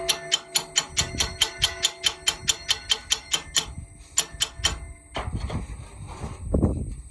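A hammer striking metal in a fast, steady rhythm of about four or five blows a second, the metal ringing between blows. The blows stop about five seconds in, followed by irregular scraping and knocking.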